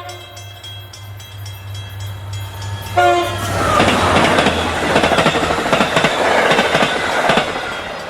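Train horn giving two short toots, the second about three seconds in, over a steady low hum, followed by a loud rush and clatter of a train passing that fades near the end.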